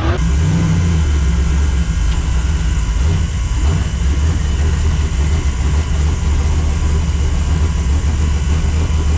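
Car engine idling steadily with a deep, even low note and no revving.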